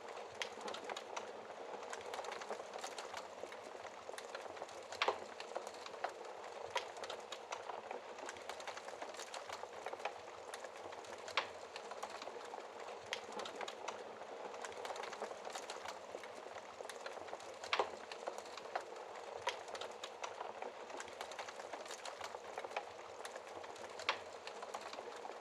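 Wood fire in a fireplace crackling steadily: a soft hiss full of small snaps and ticks, with a louder pop every six seconds or so.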